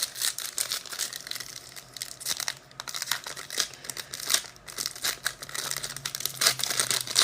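Trading-card pack wrappers crinkling and tearing as a pack is opened and the cards handled: a dense run of irregular crackles.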